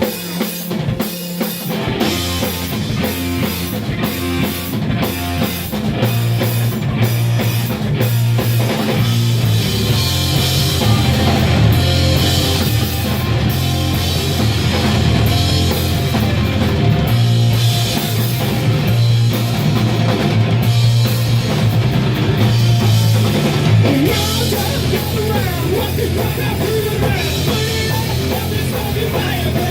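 Live rock band playing loud, heavy, punk-leaning music with drums and distorted guitar. It opens on drum hits, and heavy sustained low notes come in about six seconds in.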